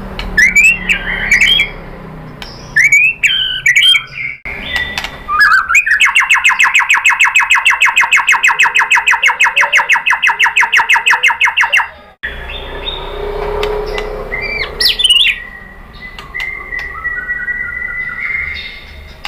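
White-rumped shama singing: varied whistled phrases, then a fast, even trill of about eight notes a second lasting some six seconds that stops abruptly, followed by more whistles ending in a long steady note.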